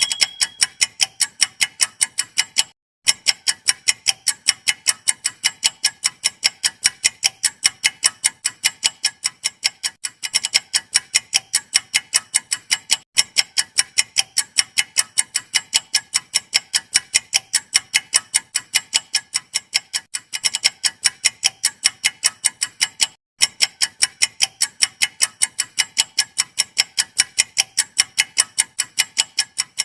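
Clock-style ticking, used as a quiz countdown-timer sound effect: sharp, even ticks about four a second. The ticking breaks off briefly about every ten seconds, where it restarts.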